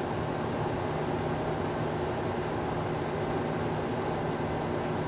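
Steady machinery hum with a few constant low tones and a faint, even ticking above it.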